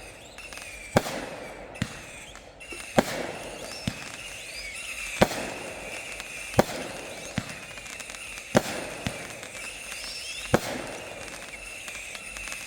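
Backyard consumer fireworks going off in a steady sequence: six loud bangs about two seconds apart, each trailed by crackling and a smaller pop a moment later, with short rising whistles between them.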